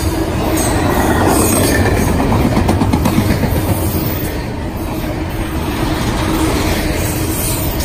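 Double-stack intermodal container train passing at close range: steady, loud rumble and clatter of steel wheels on rail from the loaded well cars, with a faint steady whine underneath.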